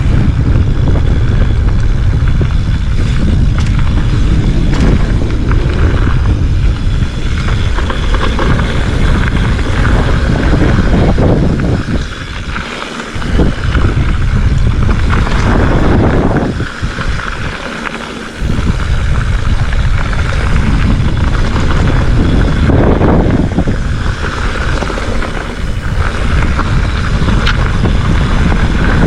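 Wind buffeting the action camera's microphone as a mountain bike descends a dirt singletrack, mixed with tyre noise and rattles from the Specialized Fuse hardtail. The rumble eases briefly twice, about 12 and 17 seconds in.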